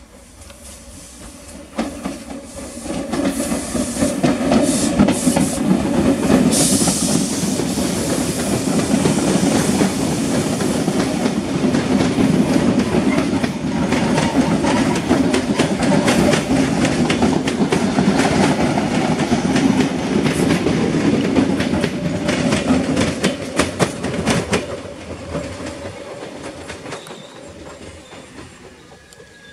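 Mafersa-built CPTM Série 1700 electric multiple unit train passing close by, its wheels clicking rapidly over the rail joints. The noise builds about two seconds in, stays loud for some twenty seconds as the cars go by, and fades away near the end.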